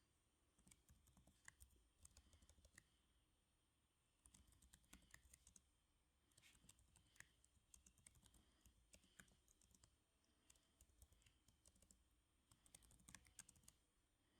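Soft typing on a computer keyboard: runs of quick key clicks broken by short pauses, about four runs in all.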